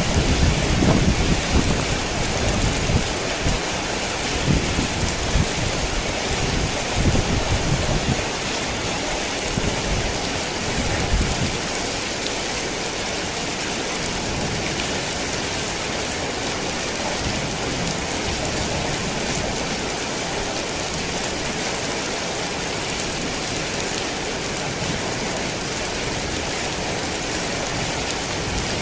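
Heavy rain falling steadily, with low rolling thunder rumbling irregularly through roughly the first twelve seconds before it dies away, leaving only the rain.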